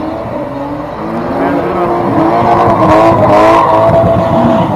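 Car engine revving, its pitch rising and falling, louder in the second half.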